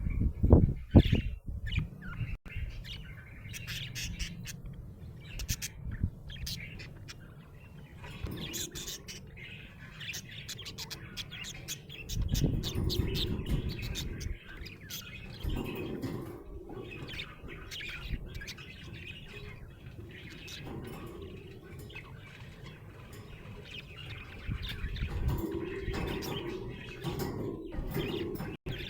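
Budgerigar chirping and warbling, a steady stream of quick, high chirps, with stretches of low rumbling noise about halfway through and near the end.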